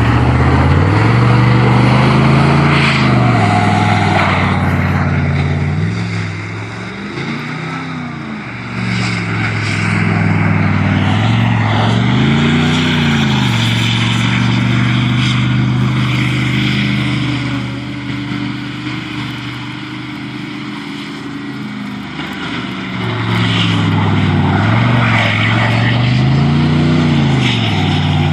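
Truck engine running and revved up and back down several times, each rev a brief rise and fall in pitch.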